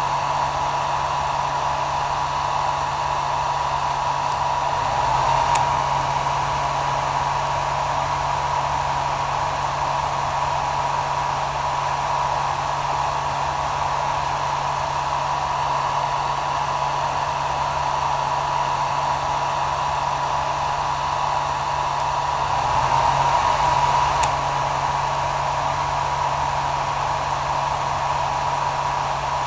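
Hair dryer running steadily: an even rushing blow with a high whine and a low motor hum underneath. It swells a little twice, about a fifth of the way in and again near the end.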